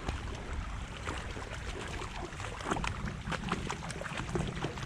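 Water sloshing and splashing as someone wades through a shallow creek, with wind buffeting the microphone.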